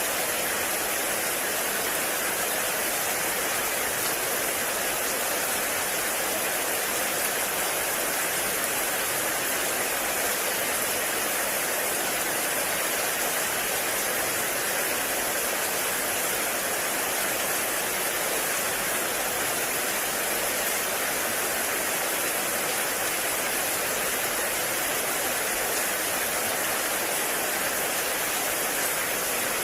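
Heavy rain falling steadily in a forest: a dense, even hiss with no single drops standing out.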